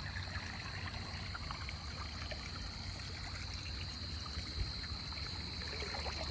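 Water trickling and dripping around a kayak on a river, with scattered small drips and a steady high-pitched hum behind.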